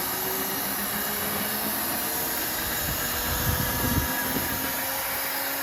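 Machinery running steadily with a faint whine that slowly rises in pitch, and a short low rumble about three to four seconds in.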